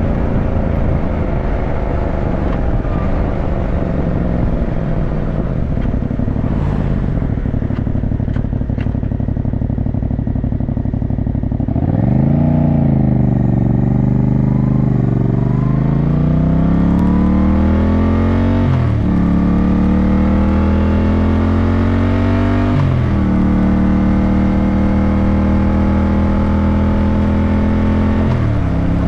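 Yamaha motorcycle engine running steadily at first, then revving up about twelve seconds in and pulling through the gears. Its pitch climbs and drops back sharply at each of three upshifts.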